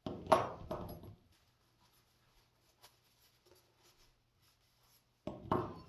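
Two short bursts of rubbing and handling noise as scissor parts are wiped down with a rag on the bench: one about a second long at the start, another briefly near the end.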